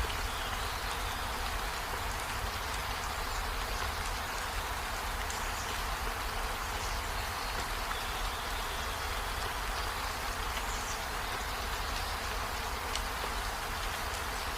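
Steady rain falling on trees and a window, an even hiss with a low rumble beneath it and a few faint short high chirps scattered through it.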